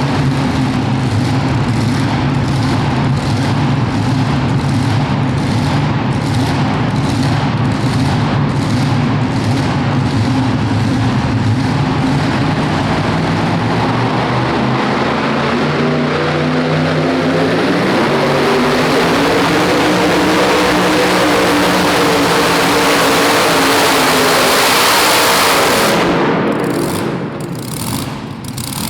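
Super modified two-wheel-drive pulling truck's engine at full throttle under load, holding a steady pitch at first, then climbing steadily in pitch through the second half of the run. About three seconds before the end the throttle is cut and the sound drops away sharply.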